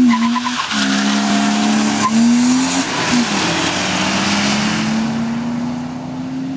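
Three BMWs (a 328i, a 320d and a 740i) launching together in a drag race, engines revving hard under full throttle. The engine note climbs and drops back at each upshift, a few times in the first few seconds and then in one long rise, and grows fainter near the end as the cars pull away.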